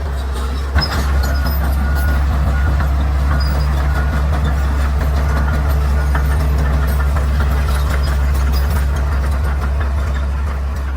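Bulldozer's diesel engine running steadily, with a single sharp knock about a second in.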